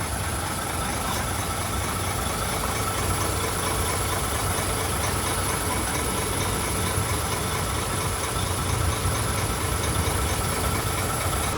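Heavy diesel engine of earthmoving machinery running steadily at a low rumble, with a thin steady high-pitched whine over it.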